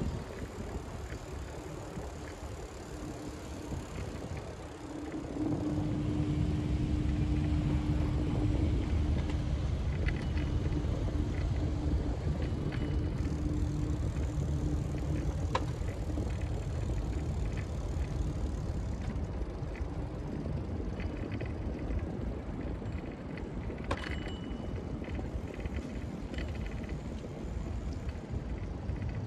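Steady low rumble of riding along, with no speech, growing louder about five seconds in. A faint held hum is present during the first several seconds, and a couple of light clicks come later.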